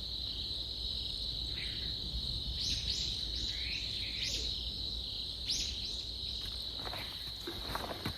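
Outdoor ambience led by a steady high-pitched insect trill. Several short chirps rise over it in the middle. Scattered clicks and rustles, like steps on leaves, start near the end.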